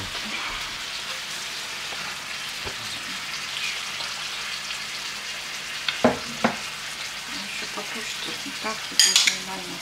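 Liver frying in a pan, a steady sizzle. A few sharp knocks break in about six seconds in, and a louder cluster comes near the end.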